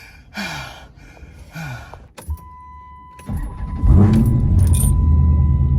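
A click, then a steady electronic chime from a car, then the car's engine starts about three seconds in and settles into a loud, steady idle.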